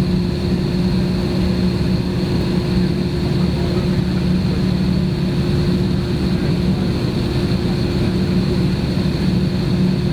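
Steady cabin drone inside an Airbus jetliner on the ground, its jet engines at idle before takeoff: an even rumble with a constant low hum and a thin high whine.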